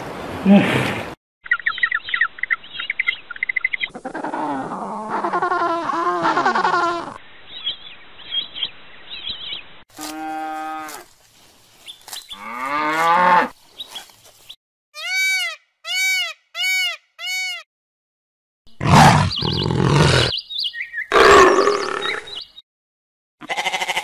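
A string of short, separate animal calls cut one after another, with abrupt stops and brief silences between them, cattle mooing among them. In the middle comes a run of four short, identical rising-and-falling notes.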